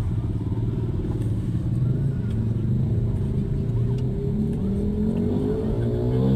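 Low, steady rumble of street traffic with vehicle engines running.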